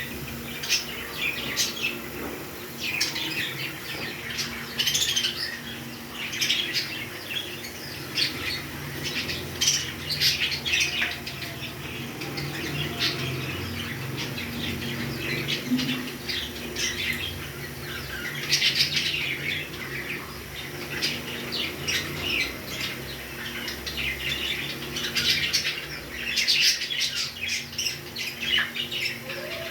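Pet parrots chirping and squawking in quick, dense bursts of short high calls that carry on throughout.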